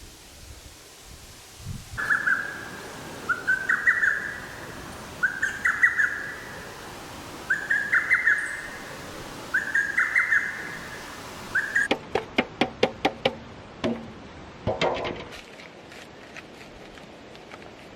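A bird singing a short rising phrase over and over, about once every two seconds. Near the end this gives way to a quick run of sharp clicks.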